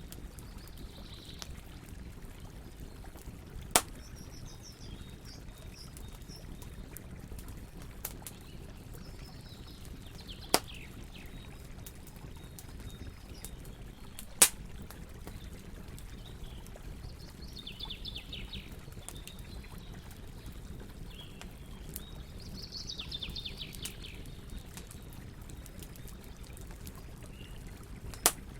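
Wood fire crackling, with four sharp loud pops among many small crackles, over a steady low rushing noise like flowing water. Small birds chirp now and then, with short falling trills in the second half.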